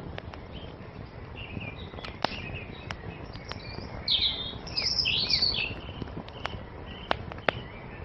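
Wood fire crackling with scattered sharp pops over a steady hiss, while songbirds chirp; the loudest burst of birdsong comes about halfway through.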